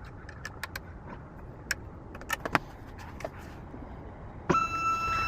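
Small sharp clicks and taps of a car key and its plastic shell being handled. About four and a half seconds in, a steady electronic beep tone starts abruptly and holds.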